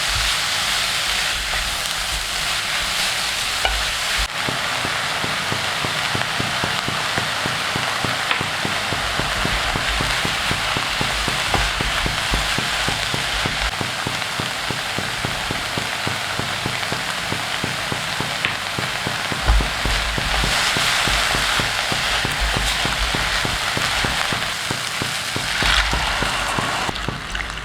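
Food sizzling steadily in a hot pan, stirred now and then with a few low knocks of the utensil against the pan.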